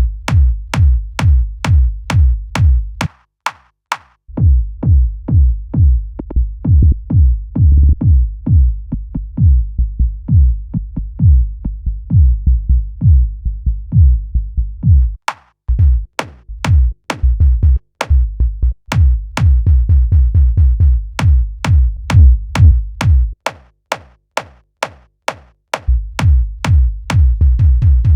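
Electronic dance music built from samples triggered on the Launchpad app: a pounding drum-machine kick with heavy bass under a steady beat. The beat drops out briefly a few times, once near the start and in short breaks later.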